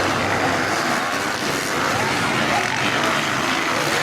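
Motocross dirt bikes' engines revving, their pitch rising and falling.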